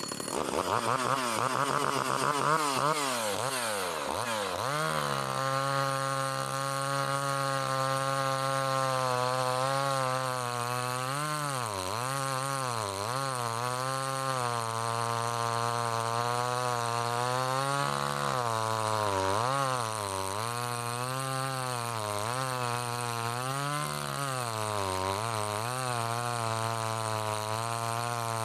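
Komatsu Zenoah G380AVS two-stroke chainsaw running, revved high at first and then held at a fairly steady speed that sags and recovers several times.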